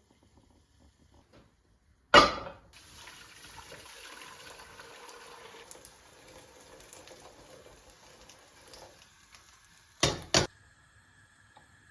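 Water running from a kitchen tap for several seconds. It starts just after a sharp, loud clatter about two seconds in and stops with two sharp knocks near the end.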